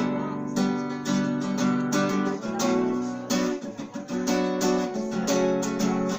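Acoustic guitar strummed in a steady rhythm, playing chords as an instrumental passage after the vocal ends. The strumming thins out and falters briefly about halfway through.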